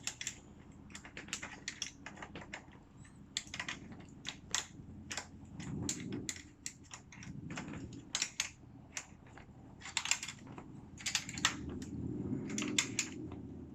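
Irregular metal clicks and knocks of two wrenches working on a threaded caster wheel's stem nut as it is tightened, with soft handling rumbles between the clicks.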